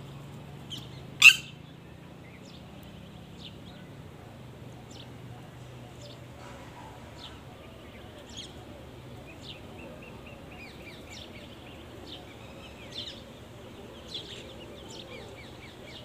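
Birds chirping outdoors: scattered short, high chirps throughout, with one loud, shrill call about a second in.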